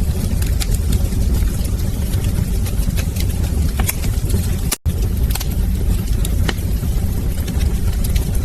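Wood fire burning in a fireplace: a steady low rumble with scattered sharp crackles and pops. The sound cuts out for an instant about halfway through.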